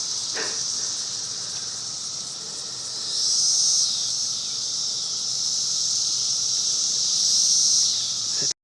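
Outdoor insect chorus: a steady high-pitched buzz that swells louder twice, then cuts off abruptly near the end.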